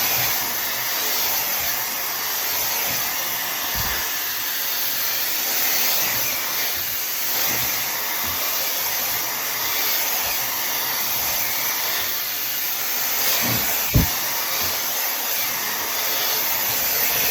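Tymo Air Hype hair dryer running steadily, a loud even rush of air. A single short knock sounds late on.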